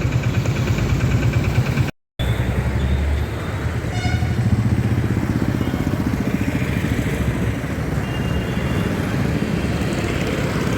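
Road traffic with motorcycle engines running, cut off by a brief dropout to silence about two seconds in.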